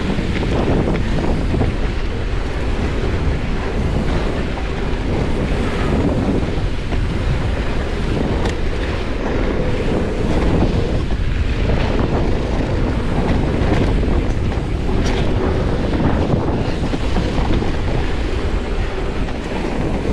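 Steady wind buffeting the microphone of a camera riding along on a mountain bike at speed, a continuous rushing noise heaviest in the lows.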